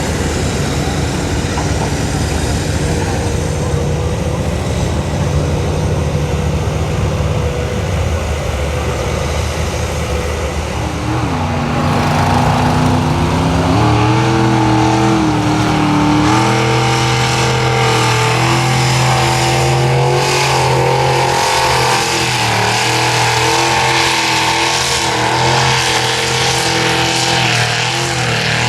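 Ford F-550 mega truck's engine running hard at high revs, its pitch stepping up about twelve seconds in and holding there, with spattering noise in the second half.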